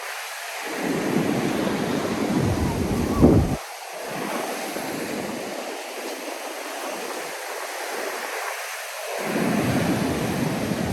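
Ocean surf breaking and washing on a sandy beach, a steady hiss of waves. Wind gusts rumble on the microphone at times, in the first few seconds and again near the end.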